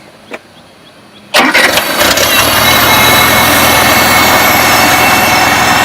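1975 Farmall Cub's four-cylinder engine key-started: it catches about a second and a half in, after a few uneven strokes, then settles into steady running.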